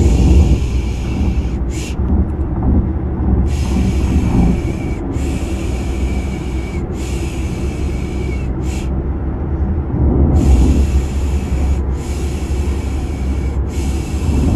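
Steady low rumble of a car sound effect with rhythmic 'piş piş' shushing over it: long hissed 'shhh' sounds, each about a second and a half, in groups of two or three that end on a short 'sh', with brief pauses between groups. This is the white-noise sound used to lull a baby to sleep.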